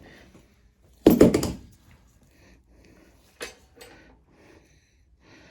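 Hard parts and tools being handled on a work surface: a loud clatter of several quick knocks about a second in, then a few lighter knocks a couple of seconds later.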